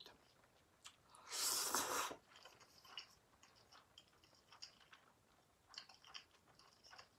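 A mouthful of stir-fried yakisoba noodles drawn in with a short, loud slurp about a second in, then quiet wet chewing with small mouth clicks.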